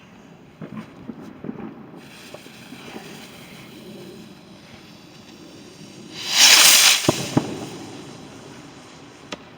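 Firework going off: a loud hiss lasting under a second, then two sharp cracks. A few small pops come earlier.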